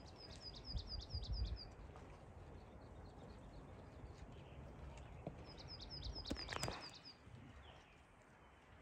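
A small songbird singing two phrases, each a quick run of about eight falling high notes, one near the start and one after about five seconds, over faint outdoor background. Low thumps on the microphone come during the first phrase.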